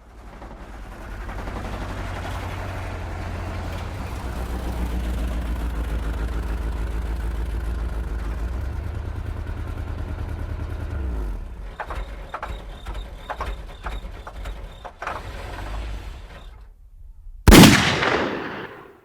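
A steady, low mechanical rumble like a running engine for about eleven seconds, then a rapid run of sharp cracks, and near the end one loud bang that rings off.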